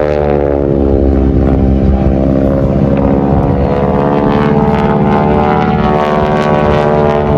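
Propeller airplane engine running loudly, a steady many-toned hum whose pitch sags slightly through the first few seconds and rises a little near the end.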